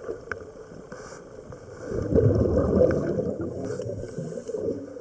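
Scuba diver's breathing heard underwater: a swell of gurgling exhaled bubbles from the regulator in the middle, with a short inhalation hiss near the end.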